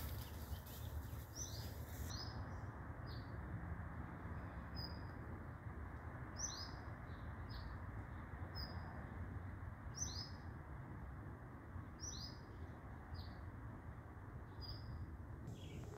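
A songbird chirping repeatedly: short, high, falling notes in groups of two or three every couple of seconds, over a steady low background rumble.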